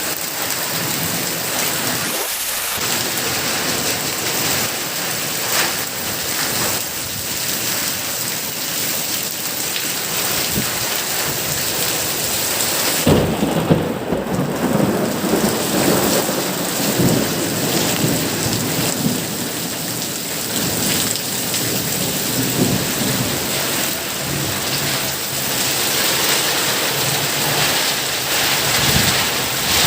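Heavy rain pouring steadily in a thunderstorm, with a clap of thunder about halfway through that rumbles on for several seconds.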